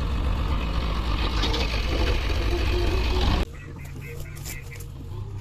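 Heavy diesel machinery running loudly under work. About three and a half seconds in, the sound drops suddenly to a quieter engine hum, with a rapid run of short electronic beeps.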